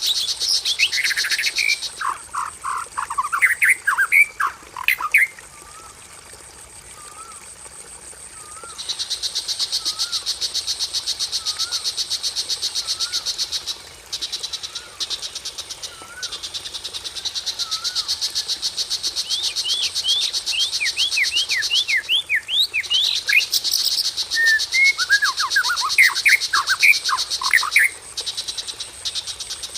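Songbird calls from a bird-lure recording: bursts of quick, sharply falling whistled notes, with softer wavering notes between them. Under them runs a steady high trilling chorus that drops out for a few seconds, then returns.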